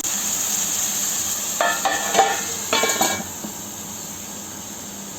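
Chicken frying in a pan with a steady sizzling hiss. Between about one and a half and three seconds in, a metal utensil clinks several times against the pan. After that the sizzle drops quieter.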